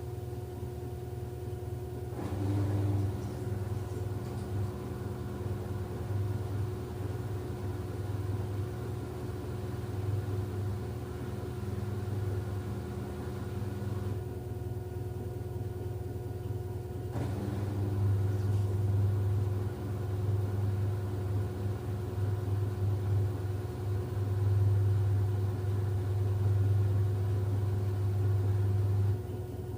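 LG F10B8MD direct-drive washing machine running in its final spin, up to 1150 rpm: a steady motor whine with a low drum hum that cuts in and out, swelling for stretches of several seconds. The owner judges it healthy, with no bearing drone and no jumping.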